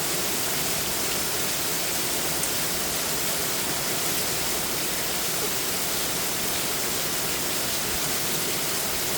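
Very heavy rain pouring down in a steady, unbroken rush, with water cascading off a roof edge like a waterfall.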